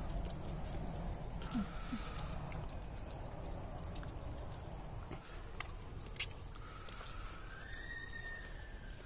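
People chewing roasted pork close up, with scattered wet clicks and smacks of mouths over a low steady background. A faint drawn-out high tone sounds twice in the background.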